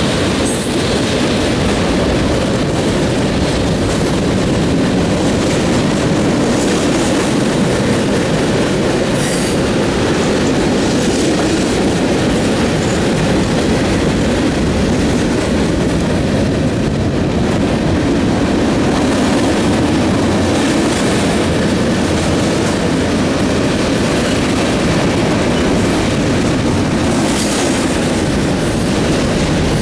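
Freight cars of two trains rolling past side by side on parallel tracks: a steady loud rumble and rattle of steel wheels on rail. A few brief high-pitched wheel squeals cut through it.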